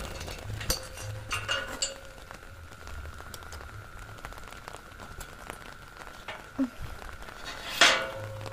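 Steady rain pattering, with scattered small clicks and a brief louder sound near the end.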